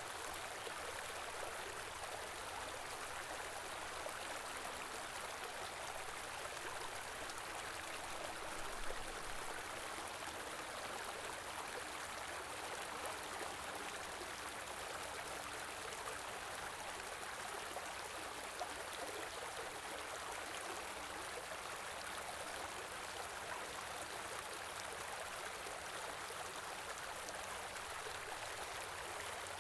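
A small river running steadily over stones, an even rush of flowing water.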